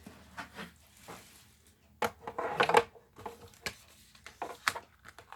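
Knocks, clatter and rubbing as a Big Shot die-cutting machine and its plates are handled on a tabletop, with the busiest clatter about two seconds in.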